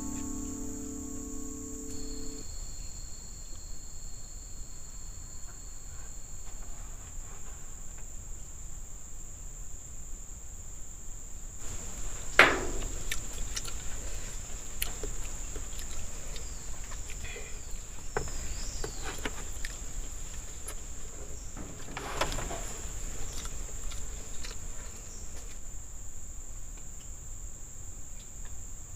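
Steady high-pitched insect chorus of the forest, crickets or similar, with a sharp knock about twelve seconds in and a weaker one near twenty-two seconds.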